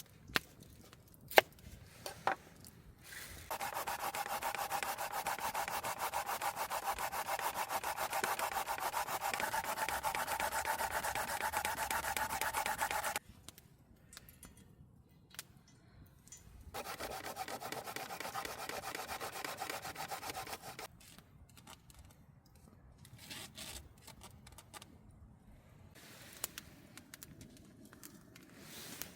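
Daikon radish being grated on a copper oroshigane grater, a fast, even rasping of strokes. It runs for about ten seconds, pauses, then runs again for about four seconds. A few sharp knocks come just before the grating starts.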